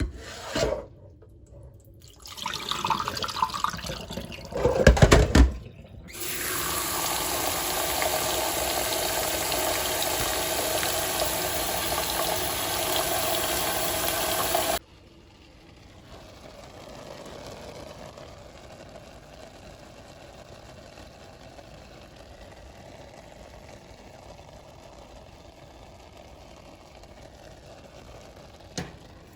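Water running from a tap into a sink, a steady rush for about nine seconds that cuts off suddenly when the tap is shut. A few knocks come before it.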